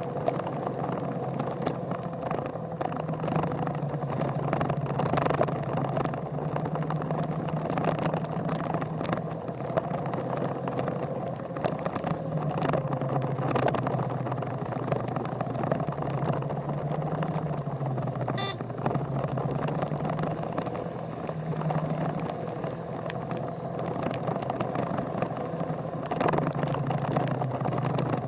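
A vehicle engine running, its pitch drifting slowly up and down every few seconds, with scattered light ticks over it.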